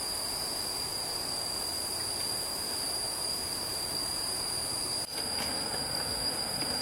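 Steady high-pitched whine of a jungle insect chorus, such as cicadas, over an even rush of running stream water. There is a brief drop about five seconds in.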